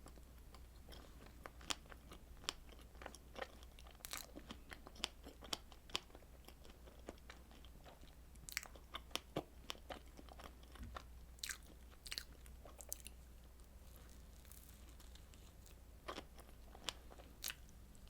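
Close-miked eating: bursts of biting and chewing with sharp, crisp crackling clicks, in three clusters with short pauses between.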